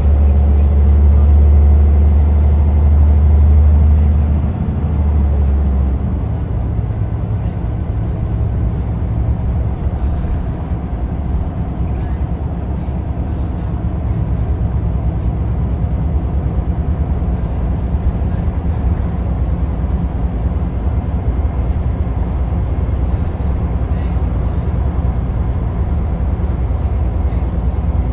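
Diesel engine of a Scania L94UA articulated bus running, a steady low drone that is louder for the first five or six seconds, then settles to a quieter, even note.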